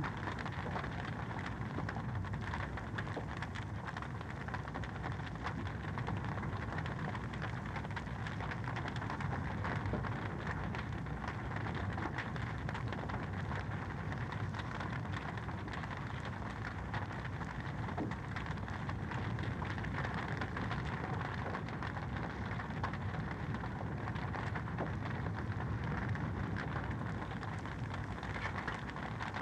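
Wood fire in a fireplace crackling steadily: a dense run of small pops and snaps over a constant hiss.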